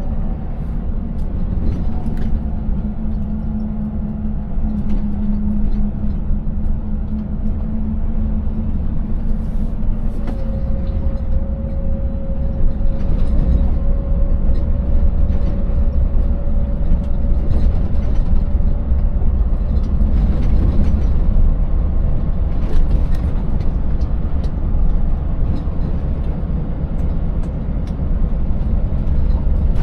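Scania 590S V8 truck driving at a steady pace: a constant low engine drone and road rumble, with scattered knocks and rattles as the rig runs over a broken road surface.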